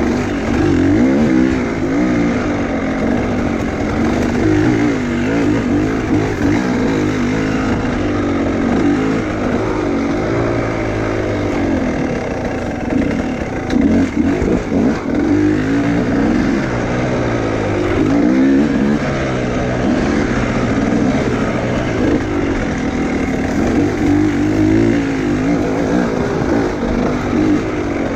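Enduro motorcycle engine revving up and down over and over, its pitch rising and falling every second or two, with some uneven, choppy stretches around the middle.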